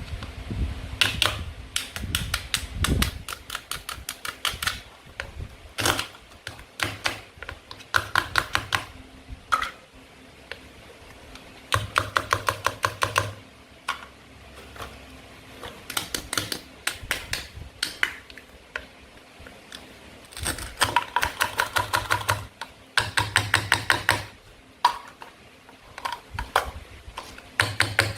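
Plastic play-food toys being cut apart with a toy knife: repeated runs of rapid, sharp clicks and crackles, each run lasting about one to two seconds, with short pauses between cuts.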